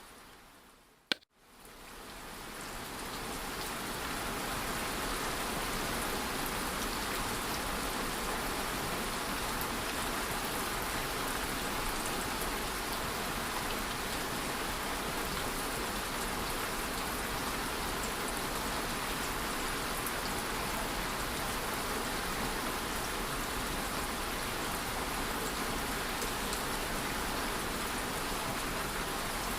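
Steady rain sound, an even hiss like a white-noise sleep track, fading in over the first few seconds and then holding level. Just before it, about a second in, comes a brief dropout and a single sharp click.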